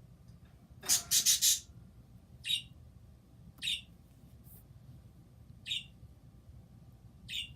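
Pet bird calling: a loud burst of four or five rapid high calls about a second in, then single short high calls every one to two seconds, four in all.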